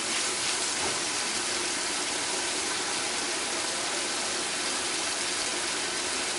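Sliced onions, celery, tomato and sweet peppers sizzling in hot oil in a frying pan: a steady, even hiss.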